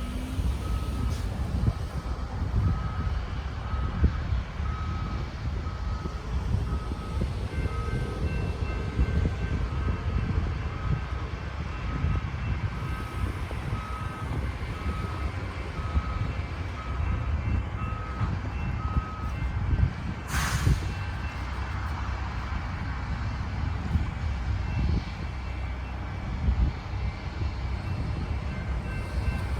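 Two vehicle backup alarms beeping about once a second over a steady low rumble; the lower-pitched one stops about two-thirds through, just before a short sharp hiss of air.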